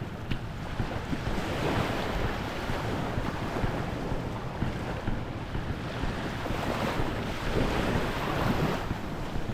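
Small waves washing onto the shore, the surf rising and falling every few seconds, with wind buffeting the microphone as a low rumble.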